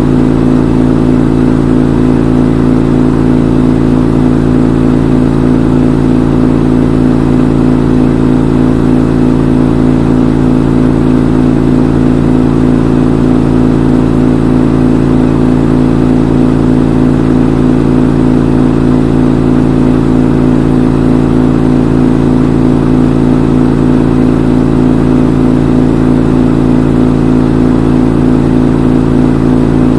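Front-load washing machine in its spin cycle, the drum running at a steady high speed with an unchanging hum.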